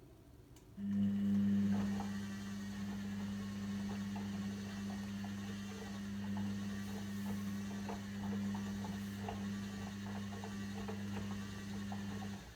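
Logik L712WM23 washing machine giving a steady low mains hum that starts about a second in and cuts off near the end, with faint light clicking over it.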